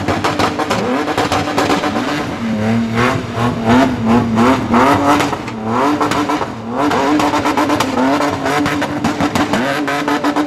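A car engine revving hard. It holds a steady high note, then in the middle runs through a quick series of rising revs, one after another, before settling back to the steady note.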